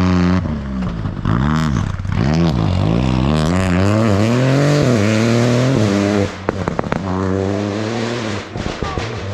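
Rally car engine revving hard through a stage section, its pitch climbing and then dropping sharply several times as it shifts gears and lifts off, with a few short cracks about six and a half seconds in.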